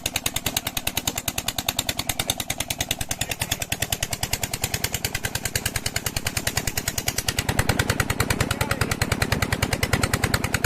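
Old Petter stationary diesel engine running steadily, its exhaust beating in a fast, even rhythm of sharp thuds. It grows somewhat louder and heavier about seven seconds in.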